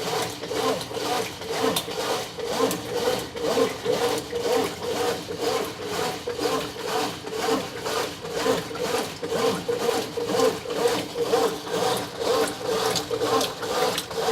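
Brastemp 9 kg top-load washing machine agitating a full load in the wash cycle: a steady motor hum with an even back-and-forth swishing rhythm, about two strokes a second.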